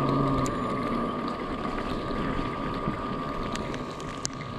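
Yatri P1 electric motorcycle riding over a rough, rocky road: a steady high whine over a noisy haze of tyre and wind noise.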